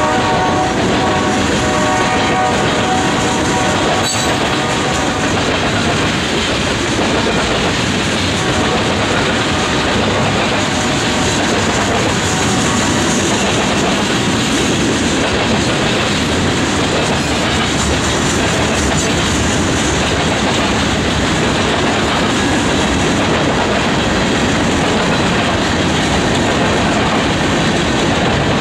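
A freight train passing close by: a diesel locomotive's air horn sounds a chord that ends about five seconds in, then the freight cars' wheels on the rails make a steady running noise for the rest of the time.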